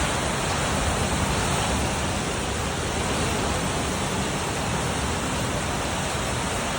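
Heavy rain pouring down: a steady, even rushing hiss.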